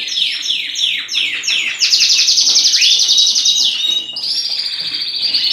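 Canary song: a run of quick, high falling notes, then a fast, even trill, broken off briefly about four seconds in before a second trill starts.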